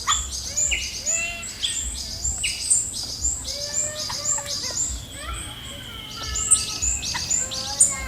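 Several birds calling in trees. A high chirp repeats about three times a second over a mix of shorter whistled notes, and one thin, long whistle slides slightly down in the middle.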